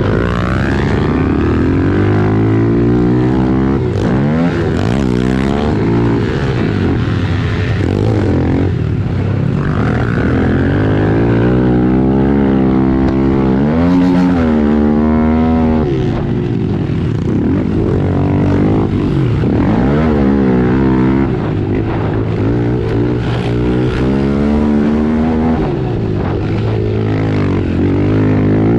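110cc four-stroke pit bike engines racing, revving up and dropping back again and again as the riders shift gears and work the throttle through the track.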